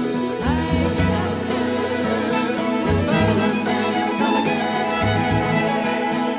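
Instrumental break in a folk song: a fiddle plays a sliding melody over string-band accompaniment with a bass line.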